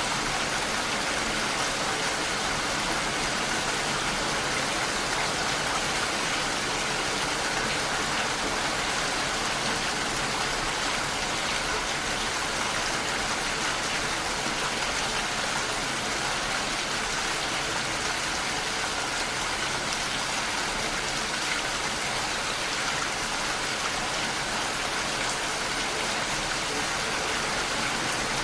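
Steady rainfall, an even hiss of rain with no single drops standing out, unchanging throughout.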